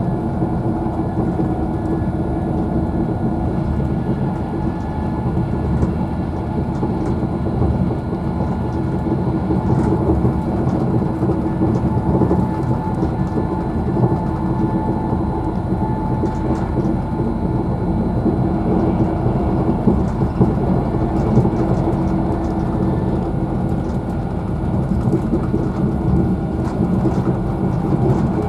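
Interior noise of a Virgin Trains Class 390 Pendolino electric train running at speed: a steady rumble of the wheels on the rails with a constant hum, and a few faint ticks.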